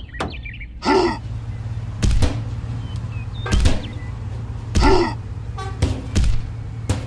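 A steady low engine drone, with short strained grunts about every second or two and a few sharp knocks between them.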